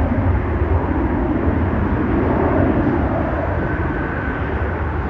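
Jet airliner engines running, a steady rumble with a faint whine coming in briefly past the middle.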